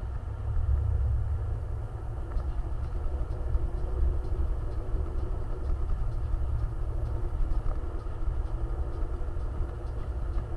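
Motor vehicle running, a steady low rumble.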